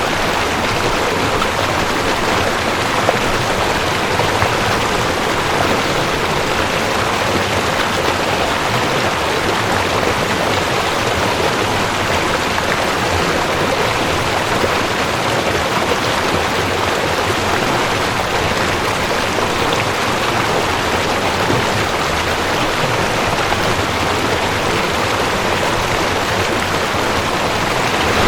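Mountain stream rushing over rocks, a steady, even rush of water with no breaks.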